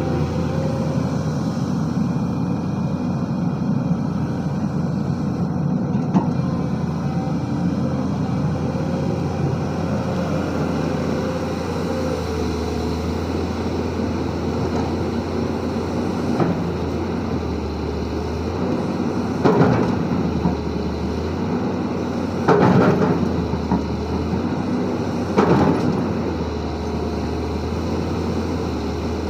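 Sany SY215C excavator's diesel engine running under working load, its pitch and level wavering as the hydraulics work. Three louder knocks come about three seconds apart in the second half.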